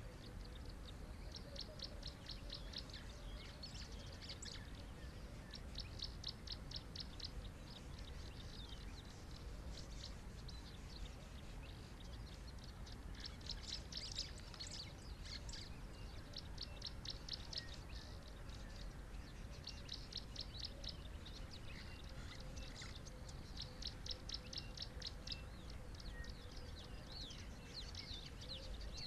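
A bird calling over and over in quick series of high notes, about seven a second, each run lasting a second or two, with a steady low rumble underneath.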